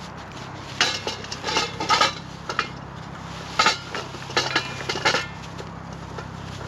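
Metal camp gear clinking and clattering: a dozen or so sharp knocks in quick clusters, some with a short metallic ring, starting about a second in and stopping a little after five seconds.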